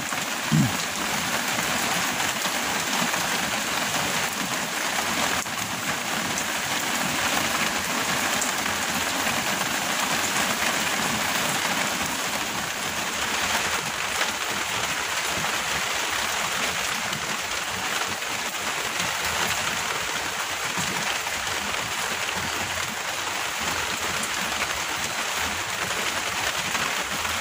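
Heavy rain falling steadily, pattering on leaves, ground and water. A short low falling sound just after the start stands out once above the rain.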